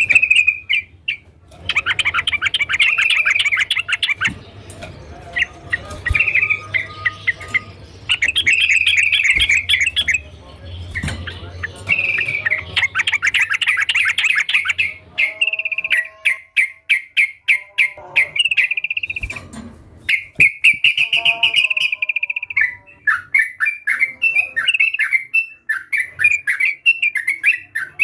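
Yellow-vented bulbul (trucukan) singing persistently: a run of chattering phrases, each a quick series of short bubbly notes lasting a second or two, separated by brief pauses.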